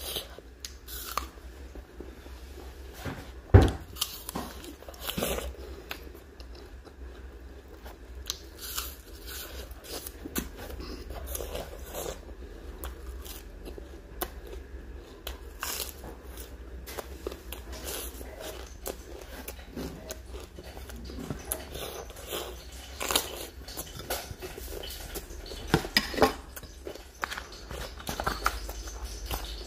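Close-up biting and chewing of crisp green vegetable pieces: irregular wet crunches, the loudest about three and a half seconds in.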